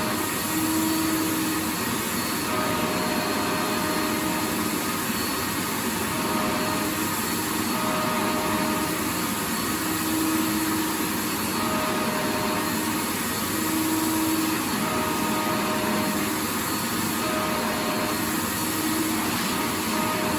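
Vacuum cleaner motor running steadily: a continuous airy rush with a faint hum whose tone drops in and out every second or two.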